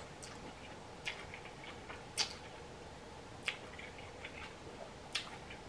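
Quiet chewing of a mouthful of ramen noodles, with about five sharp, wet mouth clicks spread through it.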